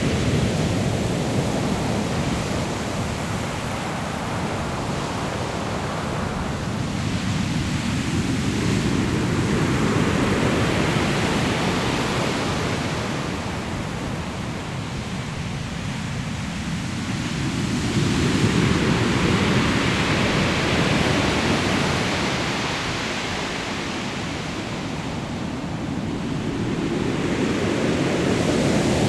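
Ocean surf breaking on a pebble shore, the rush of water swelling and fading in slow surges about every nine to ten seconds, with a sharper crash of a wave a little past the middle.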